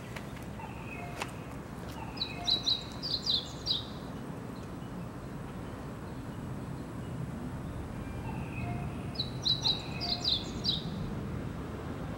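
Bird song: a short phrase of quick, high chirps, heard twice about seven seconds apart, over a steady low background hum.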